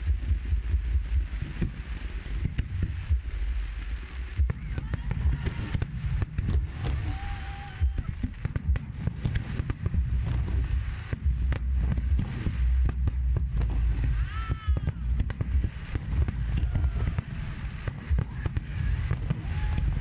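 Fireworks display: shells bursting in repeated sharp bangs and crackles over a deep rumble, with voices from the crowd in between.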